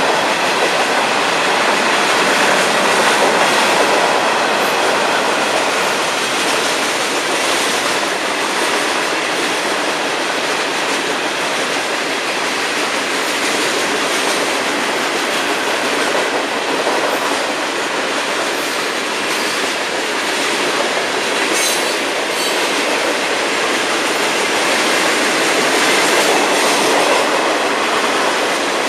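A long mixed freight train's cars rolling steadily past: a continuous noise of steel wheels on the rails, with a few sharp clicks and clacks about two-thirds of the way through.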